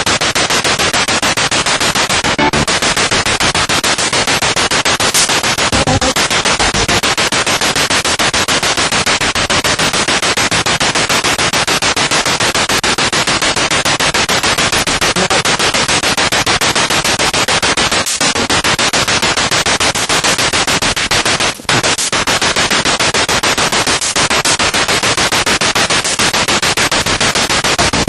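Spirit box sweeping radio stations: loud, continuous radio static that is rapidly chopped as it scans, with one brief dropout about three-quarters of the way through.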